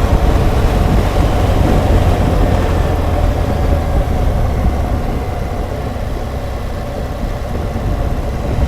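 BMW R1200GSA's boxer twin engine running on the move at a steady road speed, mixed with wind and road noise, easing off a little in the second half.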